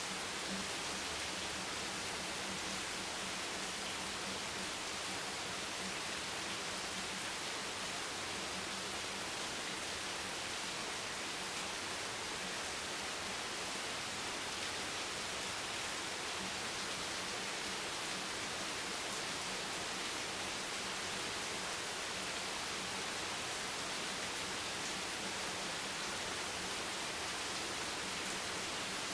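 Steady rain hiss, an even, unbroken noise with no distinct drops, thunder or other events.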